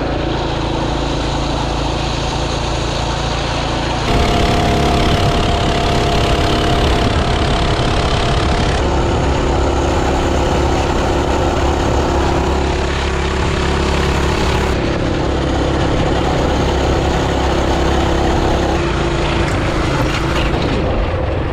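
Mini bike engine running steadily while riding, its pitch changing several times as the engine speed changes.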